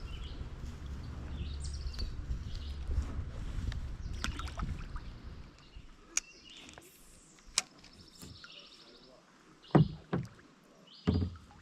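Handling noise in a kayak. A low rumble fills the first half. Then come a couple of sharp clicks and, near the end, three loud knocks against the kayak.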